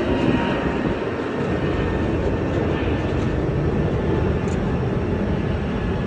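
Jet airliner's engines running as it passes: a loud, steady rumble with a faint high whine.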